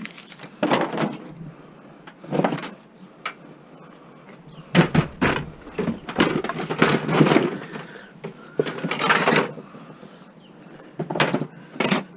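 Irregular clattering, scraping and knocking of plastic and metal parts being handled and pried as a TV is taken apart for scrap, in uneven bursts with a few sharp clicks.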